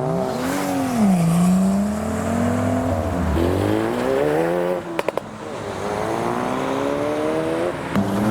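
Modified cars revving hard and accelerating away, the engine pitch climbing and dropping again several times as they go through the gears. About five seconds in there is a quick string of three sharp cracks.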